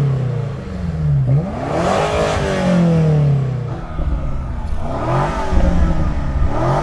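Twin-turbo V8 of a high-performance car revved repeatedly while standing still, its note rising and falling back several times.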